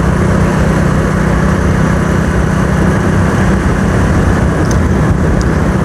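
Motorcycle engine running steadily while riding, with a constant rush of wind noise on the microphone.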